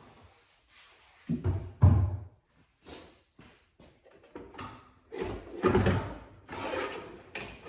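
Knocks and clunks from hand work on the car's parts: two heavy knocks about a second and a half in, a few light clicks, then a longer run of clattering and scraping in the second half.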